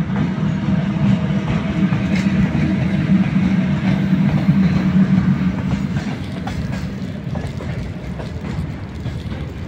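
Freight train hauled by an electric locomotive rolling past: a steady low rumble, loudest for the first six seconds and easing after, with the wagons' wheels clacking over the rail joints.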